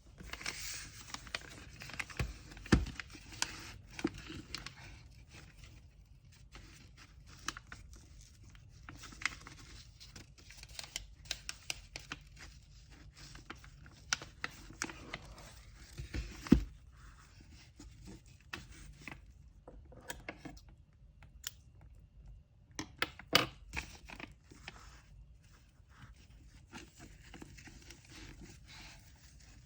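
Hand-packing an order with kraft paper and tape: paper rustling and crinkling, tearing, and many small taps. A few louder knocks stand out, the loudest about sixteen seconds in.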